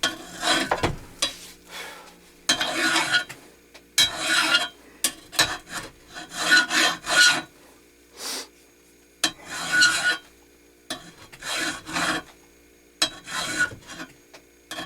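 Hand file rasping across the metal of a belt grinder in a dozen or so separate push strokes, with short pauses between them.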